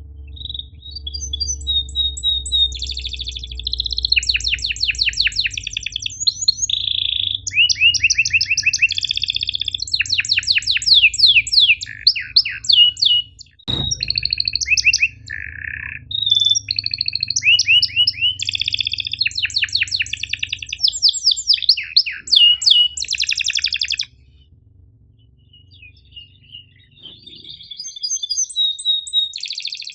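Domestic canary singing a long, fast song of rapid trills and rolls mixed with sharp chirps. The song breaks off for a few seconds about three-quarters of the way through, then starts again near the end. A single sharp click falls near the middle, over a faint low hum.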